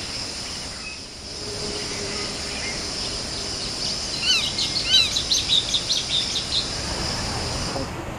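A wild bird calling in a quick series of short chirps in the middle of the clip, over a steady high-pitched insect drone that cuts off suddenly near the end.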